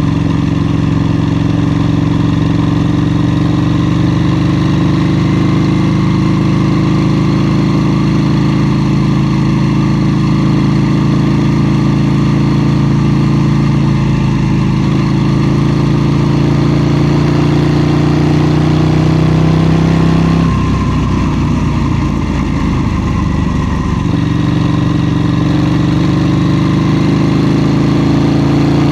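KTM 790 Duke parallel-twin engine pulling under load, its pitch climbing slowly for about twenty seconds. About twenty seconds in the throttle is closed, and the note drops suddenly and runs uneven on the overrun for a few seconds before settling into a steady drone again.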